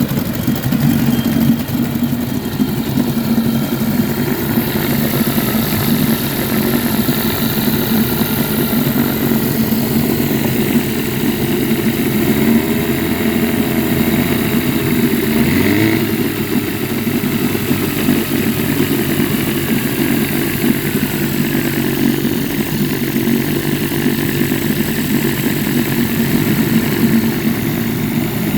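Vintage 1953 Scott-Atwater Gold Pennant 7-1/2 hp two-stroke outboard motor running steadily, its pitch briefly shifting about halfway through.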